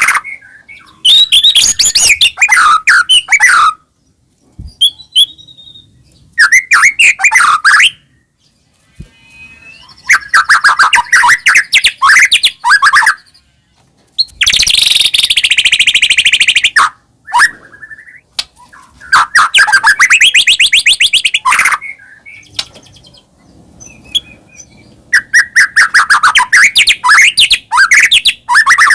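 White-rumped shama (murai batu) singing in loud phrases of rapid, rising-and-falling whistled notes. There are about six phrases, each a couple of seconds long, with short pauses between them.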